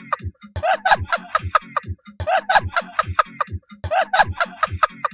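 Chicken clucking in a looped pattern: the same burst of clucks repeats about every 1.7 s, over a run of low thumps.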